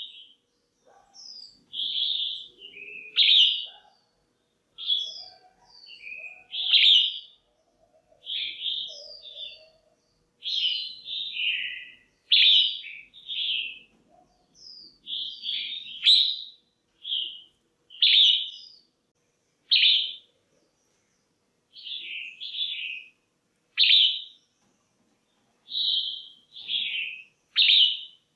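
Female red-whiskered bulbul calling: short chirpy notes given in quick phrases of one or two, every second or so, with short pauses between. These are the calls used to stir up male bulbuls or to pair them.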